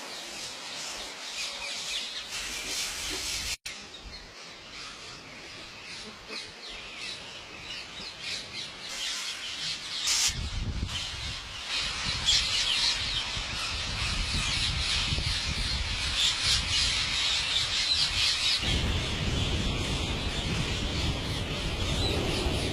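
Many birds chirping and squawking at once, a dense chorus of short calls. About ten seconds in, a low rumble joins and the chorus grows louder.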